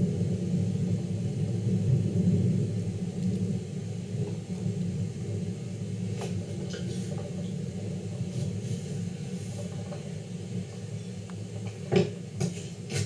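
Rolling thunder from a heavy thunderstorm, a deep rumble that slowly fades over several seconds. Several sharp clicks come late on, the loudest about twelve seconds in.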